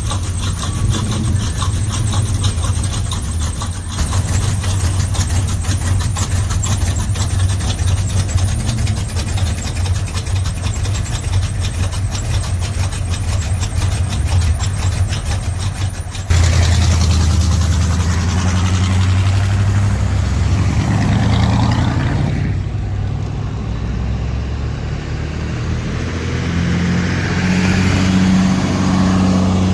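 Car engines running. For about the first half, an engine idles with a rapid, even firing pulse. It then changes abruptly to another engine running, whose speed rises near the end.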